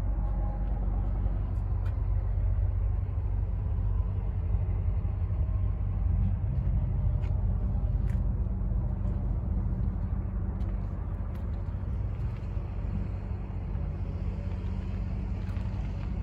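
Heavy truck's diesel engine idling steadily, a constant low drone with a few faint clicks.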